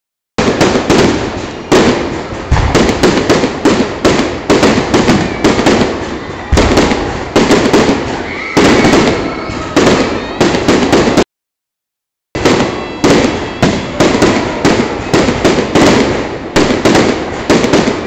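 Fireworks display: a rapid, continuous barrage of bangs and crackles. The sound drops out completely for about a second just past the middle.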